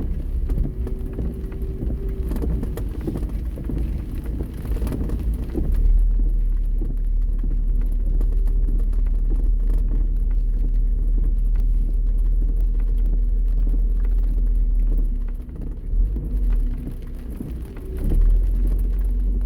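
Car driving on wet roads, heard from inside the cabin: a steady low rumble of tyres and engine. The rumble grows heavier about six seconds in, eases off briefly a few seconds before the end, then comes back.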